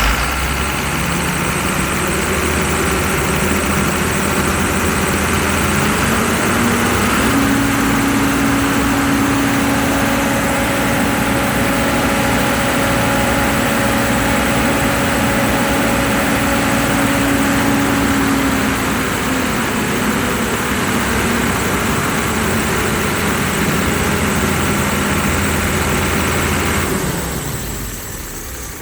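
Engine running after a start: it idles, then its speed rises and is held higher for about ten seconds before easing back toward idle. The sound drops away near the end.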